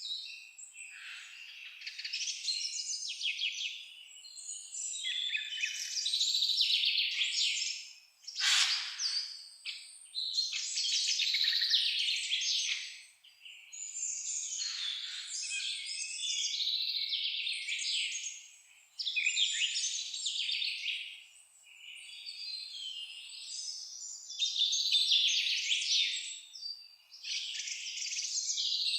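Songbirds singing in an overlapping chorus: bursts of high twittering song a few seconds long, one after another, with short pauses between them.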